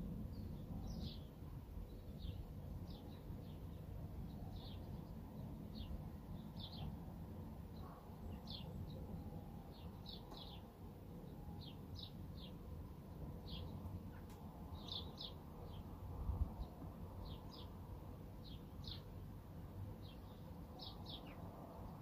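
Small birds chirping repeatedly, short high calls roughly once or twice a second, over a low background rumble that swells briefly about two-thirds of the way through.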